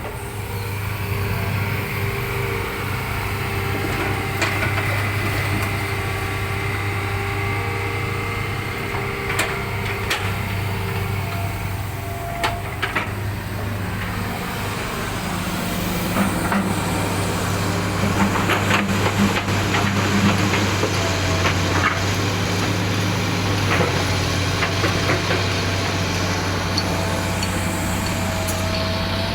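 Hitachi Zaxis 200 hydraulic excavator's diesel engine running steadily, with occasional knocks and clatter that become busier and louder from about halfway through.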